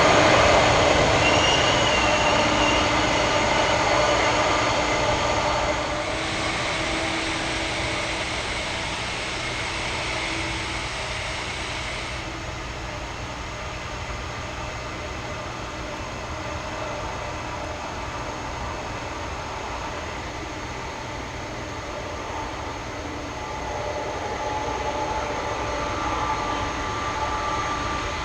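Boeing 747-400F freighter's four jet engines running with a steady whine of several tones. The sound is loudest at the start, fades over the first dozen seconds and swells again near the end.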